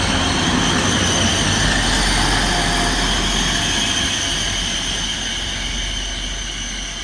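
Class 180 diesel multiple unit braking into a station platform, its brakes squealing in several high steady tones over the low rumble of the train. The sound eases off slightly near the end.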